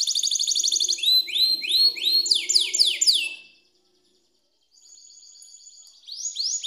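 Domestic canary song: fast trills of repeated high notes, changing to rows of rising sweeping notes, breaking off about halfway through, resuming with a faint trill and then loud quick rising notes near the end. Played as a lure song to set a silent canary singing.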